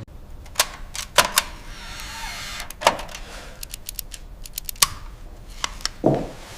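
Irregular sharp clicks and taps, single and in a quick cluster, over a faint low hum. A soft hiss comes around two seconds in and a duller knock near the end.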